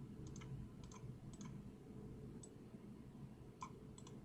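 Faint computer mouse clicks, about six scattered and irregular, several heard as a quick double click, while the randomised team and name lists are sorted.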